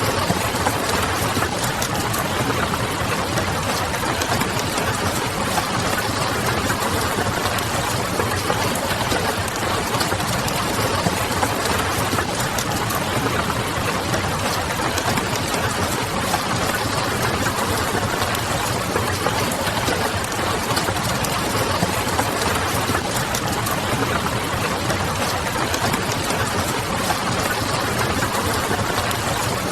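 Steady rain pattering on a window, mixed with the crackle of a wood fire.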